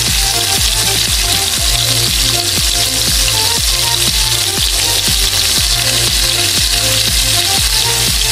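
Turon (saba banana rolls in lumpia wrappers with brown sugar) frying in oil in a steel wok: a steady dense sizzle. Background music with a steady beat plays under it.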